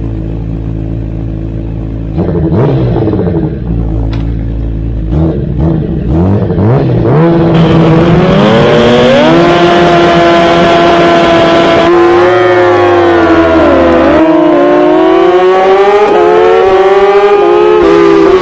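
Superbike engine revved hard at the race start: steady at first, the revs rise and fall several times, then climb steadily and run high with a few dips in pitch as the bike accelerates through the gears.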